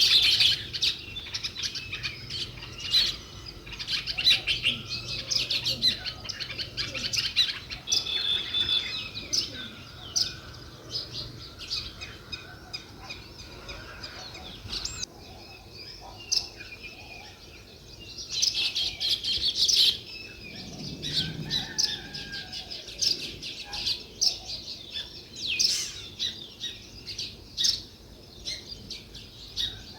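House sparrows chirping: many short, high chirps in busy bursts, with sparser chirping in between.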